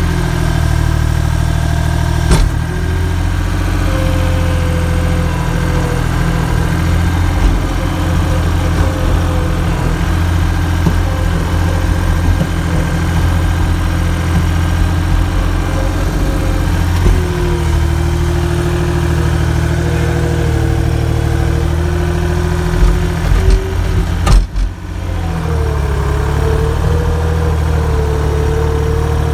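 Vehicle engine running steadily while plowing snow, its pitch shifting a couple of times. There is a single knock about two seconds in and a brief break in the sound near the end.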